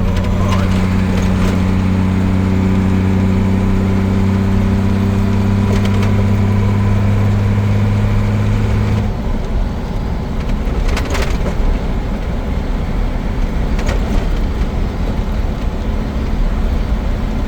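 Truck engine heard from inside the cab, running at a steady pitch as a low hum. About halfway through the hum drops away suddenly, leaving the rumble of road noise with a few short rattles.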